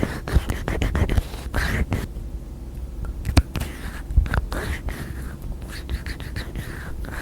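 Close-miked ASMR tapping: irregular light taps and clicks from fingertips and nails, with a few sharper taps near the middle and soft rubbing sounds in between.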